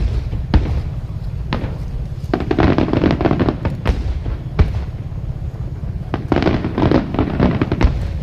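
Aerial fireworks going off: several single sharp bangs of bursting shells, and two long runs of rapid crackling about two seconds in and again near the end, over a steady low rumble.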